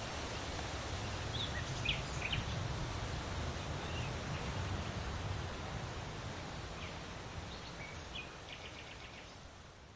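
Outdoor ambience: a steady rushing haze with a low rumble, and a small bird chirping a few short high notes about two seconds in and again near the end. The whole sound fades out at the close.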